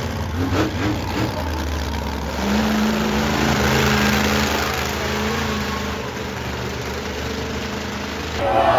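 Monster truck engine running, swelling louder about two and a half seconds in and easing back after a few seconds, over a low steady hum.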